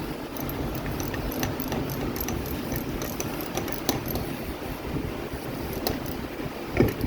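Small metallic clicks and taps from handling and assembling a car starter motor, over a steady mechanical hum, with one louder knock near the end.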